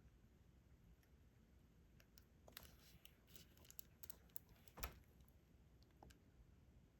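Faint scattered clicks and taps of small resin diamond-painting drills being picked up with a drill pen and pressed onto the adhesive canvas, a cluster of them in the middle with one louder tap.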